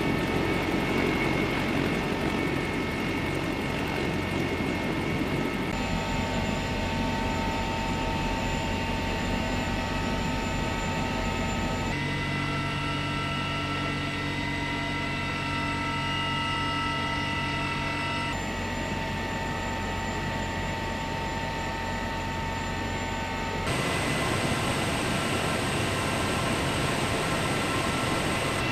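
CH-53E Super Stallion helicopter's turbine engines and rotor running steadily: a constant whine of several high tones over a low rumble. The sound changes abruptly several times, about every six seconds.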